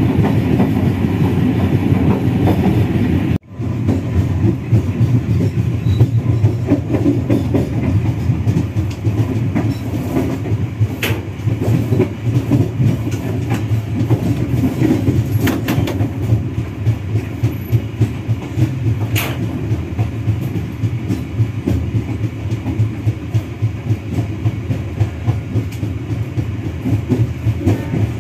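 Kahuripan passenger train heard from on board while running along the track: a steady low rumble from the carriages, with the wheels clattering rhythmically over the rails and a few sharp clicks. The sound drops out briefly a few seconds in.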